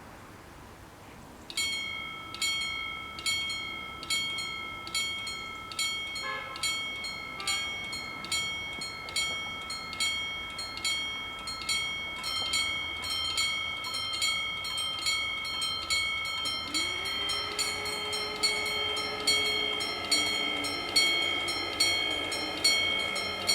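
Level-crossing warning bells start ringing about a second and a half in, struck repeatedly about once a second. Each strike rings on as a clear metallic tone. About two-thirds of the way through, a tone that rises and then holds steady joins the bells, along with a growing hiss.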